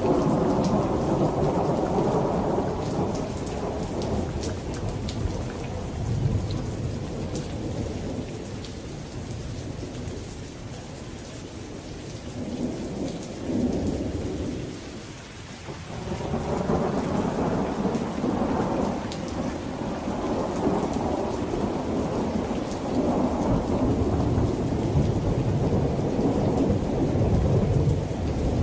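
Rain falling with rolling thunder: the rumble swells and slowly eases, dies down briefly about halfway through, then builds again.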